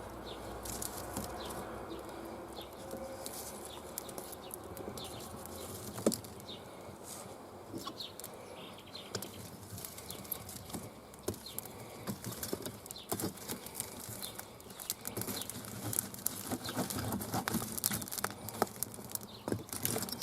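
Campfire crackling: irregular sharp pops and ticks over a low rustling, with one louder pop about six seconds in and the pops growing busier near the end.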